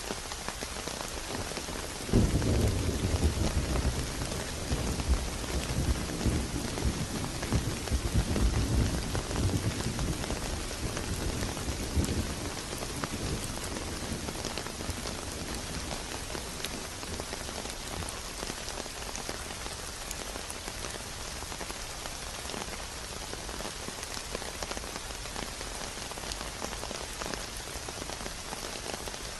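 Steady rain falling, with a roll of thunder that breaks in sharply about two seconds in, rumbles low for roughly ten seconds, then fades back under the rain.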